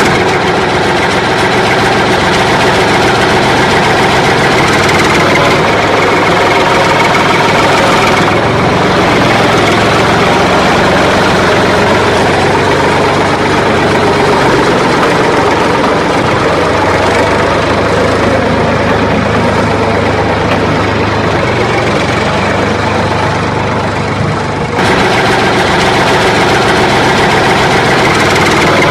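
Tractor engine running steadily at idle, loud and unbroken, with the sound shifting abruptly about eight seconds in and again near the end.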